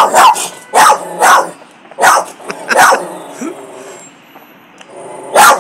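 A dog barking in sharp, loud single barks: five in quick succession, then one more after a pause of a couple of seconds.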